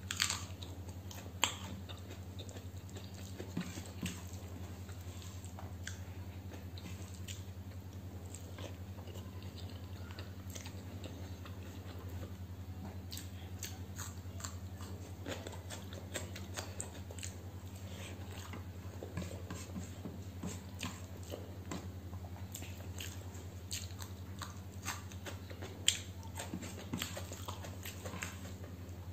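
Close-miked eating: a person biting and chewing food, with many small wet clicks and crunches, a sharper bite just after the start. A steady low hum runs underneath.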